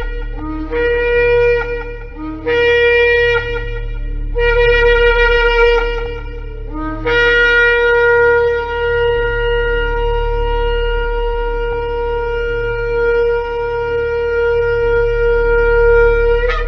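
Shofar (ram's horn) blown: three blasts of about two seconds each, each scooping up from a lower pitch into the note, then one long held blast of about ten seconds that breaks upward as it ends. A steady low hum runs underneath.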